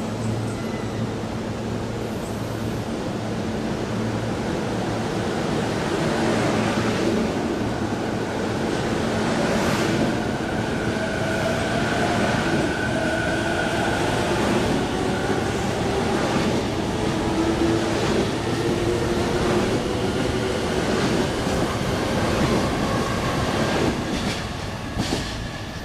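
Keihin-Tohoku Line electric train pulling out along the platform and gathering speed. The motors whine in tones that rise in pitch over the steady rumble of wheels on rail. The sound drops away near the end as the last car passes.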